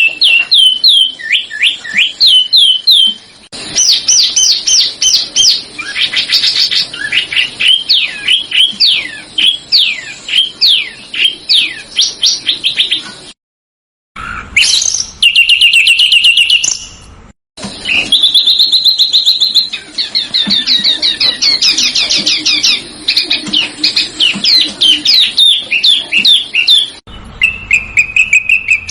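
Loud songbird song: fast runs of sharp chirps and trills that sweep steeply up and down in pitch, broken by two abrupt cuts around the middle and a change to steadier held notes near the end, as recordings are spliced together.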